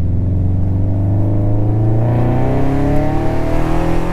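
Car engine accelerating under load, its pitch rising steadily and smoothly over about four seconds.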